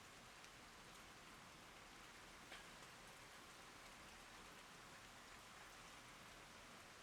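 Steady rain falling, a faint even hiss with scattered drop ticks and one louder drop about two and a half seconds in.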